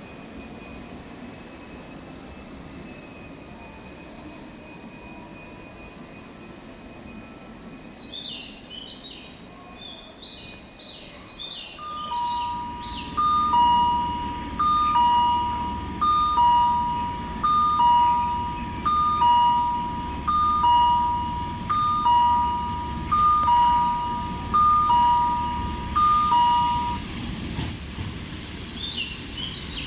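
An electronic two-note chime on a railway platform, a short higher note then a longer lower one, repeating about every second and a half for some fifteen seconds over the rising rumble of a train. Bird-like chirping comes just before the chime starts.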